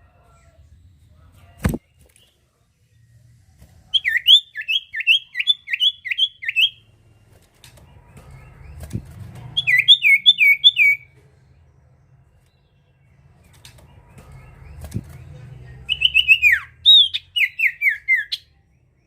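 A songbird the keepers call a sirtu sings three bouts of rapid, repeated down-slurred whistles, each bout a quick run of about five to nine falling notes. This is the kind of loud song played as a lure call to provoke other birds into singing. A sharp click comes just before the first bout.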